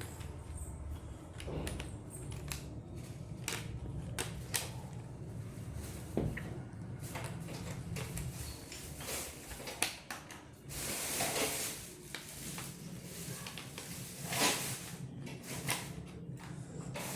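Puzzle pieces being handled and fitted into a cardboard board: scattered light knocks and clatters, with a longer scraping rustle about eleven seconds in and another shorter one near the end, over a low steady hum.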